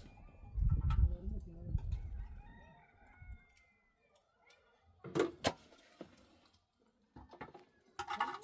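A rooster crowing, one drawn-out call starting about a second in, over loud low rumbling. A couple of sharp knocks come about five seconds in, and a short call near the end.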